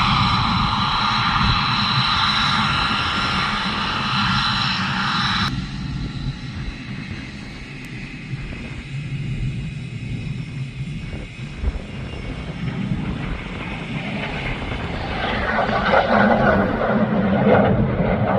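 F-22 Raptor's jet engines running: a loud roar with a steady high whine that cuts off abruptly about five seconds in. A quieter rumble follows and swells again near the end.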